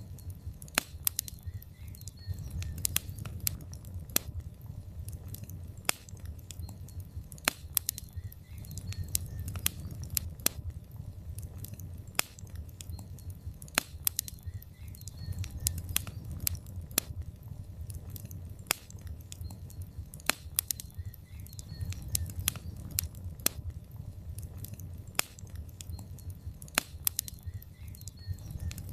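Wood fire in a fireplace crackling. Logs give irregular sharp pops and snaps, several a second, over a steady low rumble of the flames.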